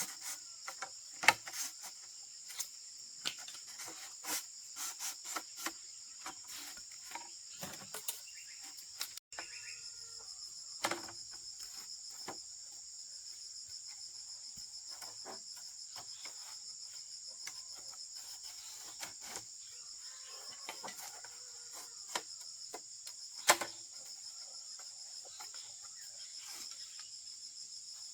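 Insects chirring in a steady high drone, with scattered sharp knocks and clicks. The loudest knocks come about a second in and again late on.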